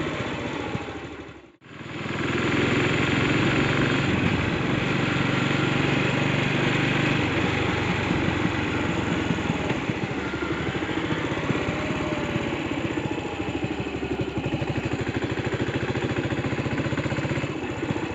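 Yamaha SR400's single-cylinder engine running with a steady, even pulse. The sound drops out for a moment about a second and a half in, then comes straight back.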